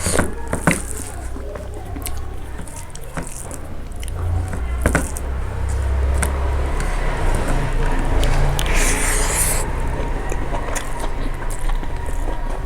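Close-miked chewing and mouth sounds of a person eating fried pork and rice, with scattered clicks and smacks and a short hiss about nine seconds in.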